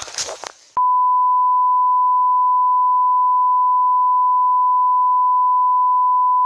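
A long, steady electronic beep at a single pitch, like a test tone. It starts abruptly just under a second in, after a moment of rustling, and holds unchanged for about six seconds.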